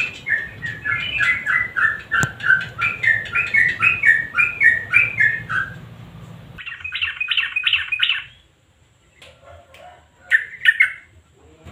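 Yellow-vented bulbul song: a long run of quick, rhythmic chattering notes for about six seconds. After an abrupt change in the background hum comes a faster burst of notes, then quiet, and a short call near the end.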